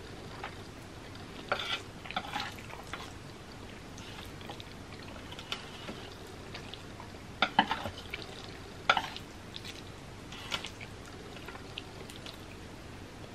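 A person eating black bean noodles close to the microphone: sparse wet smacks and clicks of chewing, the loudest clusters about seven and a half and nine seconds in, over a faint steady hum.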